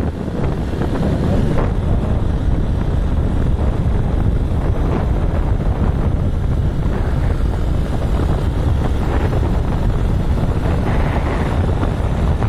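Steady wind rumble buffeting the microphone on a moving motorbike, with the bike's engine and road noise underneath.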